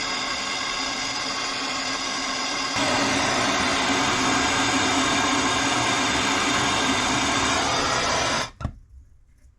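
A small electric motor runs steadily with a whine, gets louder about three seconds in, then stops abruptly near the end, followed by a single click.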